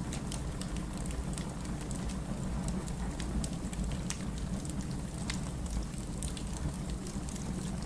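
Wood fire burning in a fireplace, crackling with frequent irregular sharp pops over a steady low rush of flame.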